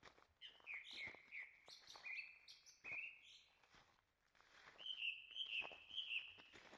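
A songbird singing: a string of short, clear notes repeated over the first three seconds, then a faster run of notes about five seconds in. Soft footsteps on the forest trail tick underneath.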